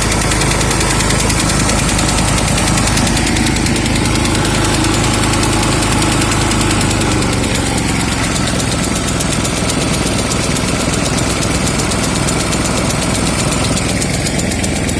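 Huter SGC 6000 snowblower's petrol engine running steadily with a foreign knocking noise from the drive. The knock comes from a worn-out toothed auger drive belt.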